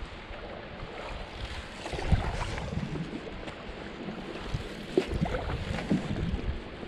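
Canoe being paddled on open water: a steady rush of water and wind on the microphone, with a few short knocks about two, five and six seconds in.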